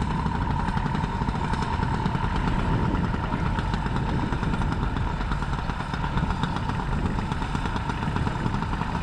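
Tractor engine running steadily with a fast, even exhaust beat and a steady whine on top.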